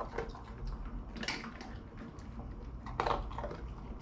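Golden retriever eating dry dog food from a bowl: scattered crunches and clinks of kibble against the bowl, with a sharper clink about a second in and another about three seconds in.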